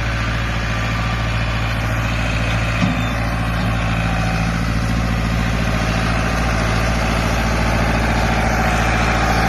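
International Harvester tractor engine running steadily at idle, with a single brief knock about three seconds in.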